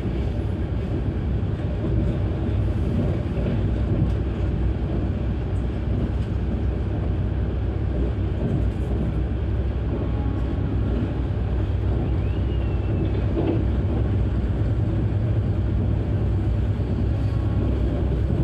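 Steady low rumble of a passenger train running at speed, heard from on board the coach: wheels rolling on the rails and the coach body running with them.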